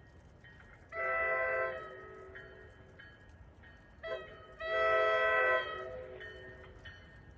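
Train's air horn sounding a multi-note chord: one blast about a second in, then a short toot and a longer blast about four seconds in.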